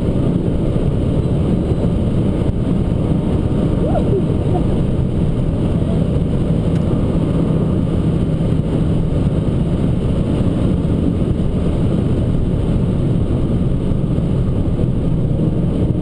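Abarth 595 Competizione's turbocharged 1.4-litre four-cylinder engine running steadily under way, mixed with dense road and tyre rumble.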